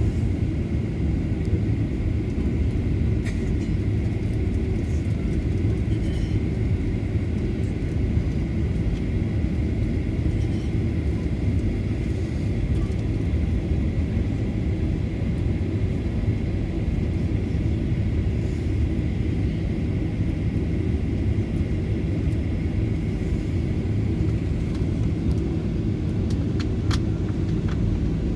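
Steady low engine rumble with a faint high whine held on one pitch, unchanging throughout, and a few faint ticks.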